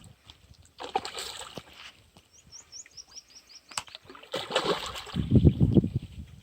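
Water splashing in two bouts, the second heavier and deeper, with a quick run of short high bird chirps between them.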